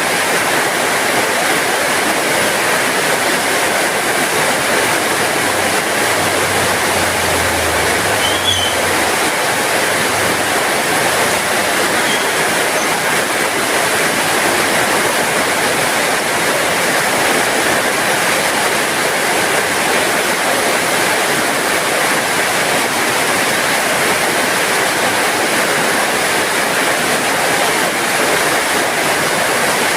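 Heavy rain falling steadily, an even hiss with no let-up. A faint low rumble sits under it about six to ten seconds in.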